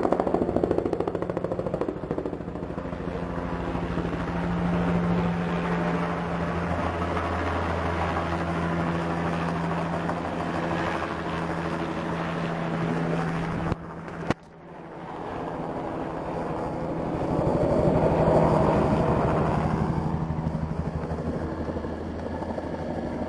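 State police helicopter flying over: steady rotor beat and engine drone. There is a brief dropout a little past halfway, and it swells louder again about three-quarters of the way through.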